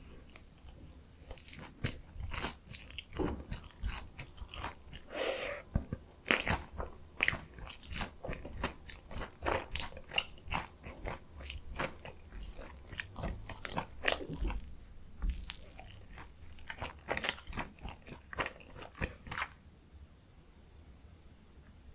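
Close-miked biting and chewing of a deep-fried potato-coated mozzarella corn dog: dense crisp crunching and crackling of the fried crust, dying away near the end.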